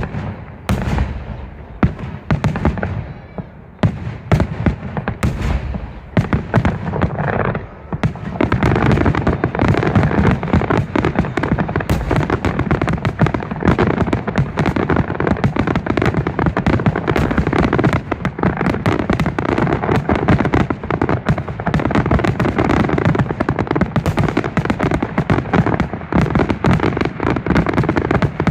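Fireworks going off: separate shell bursts with crackling tails at first, then from about eight seconds in a dense, continuous barrage of bangs and crackle.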